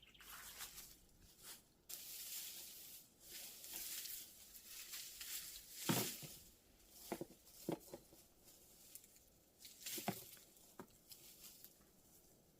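Rustling and scraping with several short knocks, the loudest about six seconds in.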